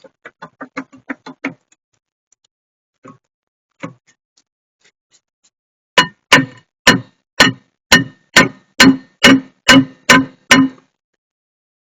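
Metal being struck with a hammer: a run of light quick taps, then about eleven hard blows, roughly two a second, each with a metallic ring.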